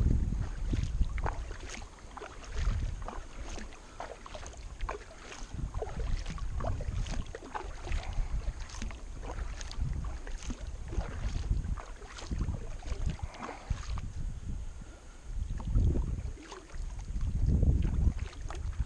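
Kayak paddle strokes splashing and dripping on the river, with repeated short splashes over low rumbling wind buffeting on the microphone.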